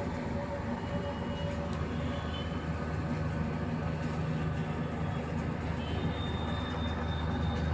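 Steady low machinery rumble, with a faint high whine coming in near the end.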